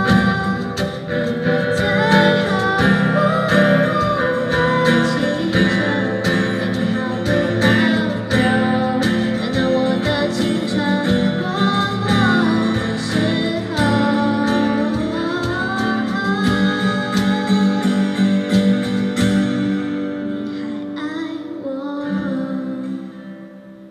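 Live band music: guitars playing an instrumental passage of a song, with a gliding lead melody over strummed chords, dying down over the last few seconds.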